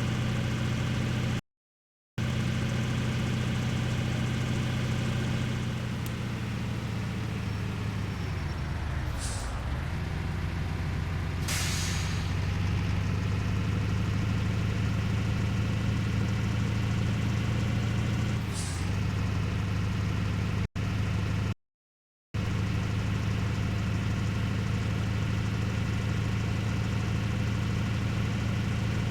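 A vehicle engine running steadily. Its pitch sags and dips about a third of the way through, then recovers. There are a few short hisses and two brief dropouts to silence.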